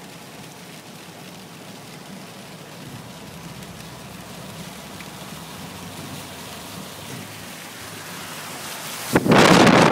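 Steady hiss of a Toyota Tundra pickup's tyres running through water on the flooded highway, heard from inside the cab. About nine seconds in, loud gusty wind buffeting the microphone cuts in suddenly.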